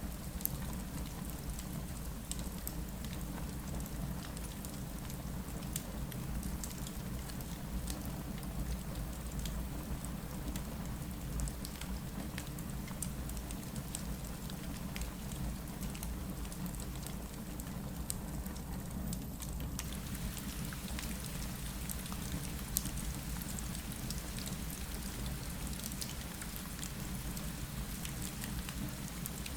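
Steady rain against a window, dotted with many small sharp ticks, with the low crackle of a fireplace mixed in.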